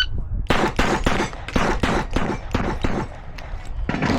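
Rimfire pistol fired in a rapid timed string: about a dozen sharp cracks roughly a fifth of a second apart, starting half a second in and stopping a little past three seconds. The shot timer's start beep ends at the very start.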